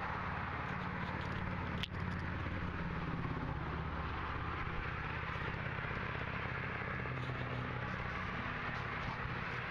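Steady rolling noise of a bicycle ride picked up by a camera clamped to the handlebar, with the camera rattling in its mount from the bike's vibration. A single sharp click comes about two seconds in.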